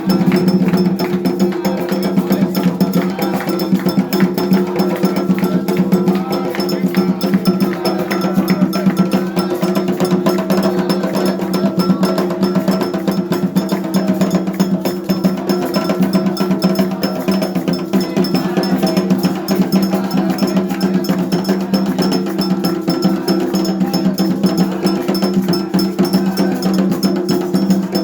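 Afro-Brazilian ritual percussion: hand drums with a struck metal bell playing a fast, steady rhythm.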